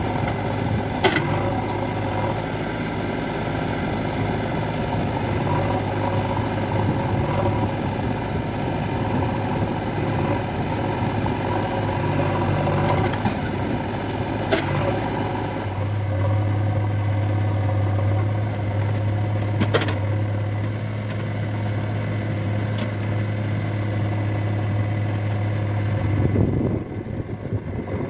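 Diesel engines of a backhoe loader and tractors running steadily, with a few sharp clanks. The engine hum deepens and strengthens about halfway through, then eases off near the end.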